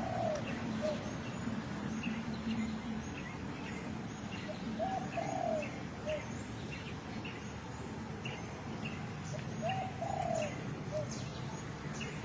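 Birds calling outdoors: a short two-part call, rising then falling, repeated about every five seconds, over a steady run of short high chirps about twice a second.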